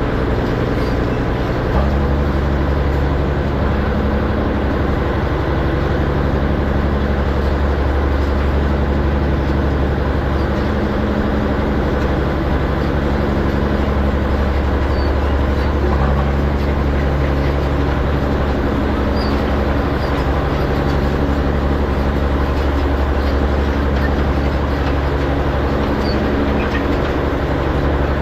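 Farm tractor engine running steadily while pulling a hay rake through windrows. Its low note steps up and grows stronger about two seconds in, then holds even.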